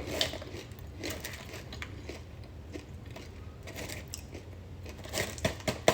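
Faint, scattered crunches and clicks of a person chewing crunchy seed crackers, over a low steady hum.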